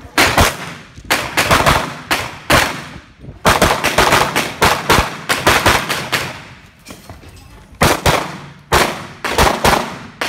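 Handgun fired rapidly in quick pairs of shots, several strings of pairs with short pauses between them, each shot ringing out briefly.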